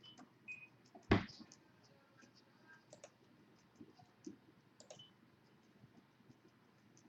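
Scattered light clicks of a computer mouse and keyboard, with one sharper, louder click about a second in.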